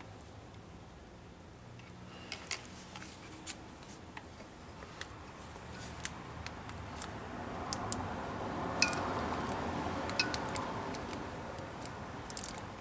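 Light, scattered clicks and taps of hands and a small oil bottle at a generator engine's open spark-plug hole while oil is dripped into the cylinder, over a faint rustling that swells in the middle.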